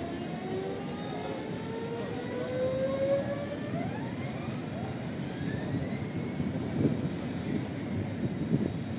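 Electric tram pulling away, its traction motor whine rising in pitch over several seconds above a steady rumble of wheels and street noise, with two clunks near the end.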